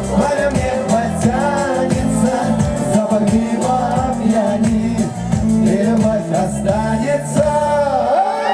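Live pop band with a man singing the final refrain of a song over a steady beat; the bass and drums stop about eight seconds in as the song ends.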